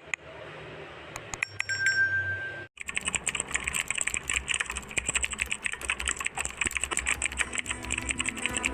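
A dense run of rapid clicks, starting suddenly about three seconds in, after a short stretch of faint steady noise with a few scattered clicks and a brief high tone.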